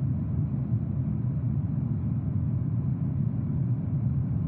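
Steady low rumble of a jet aircraft in flight, with no change in level.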